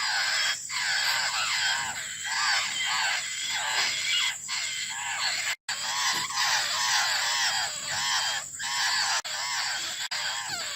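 Young laughingthrushes begging for food: a dense, unbroken run of repeated, rising-and-falling calls, several a second, cutting out for an instant about halfway.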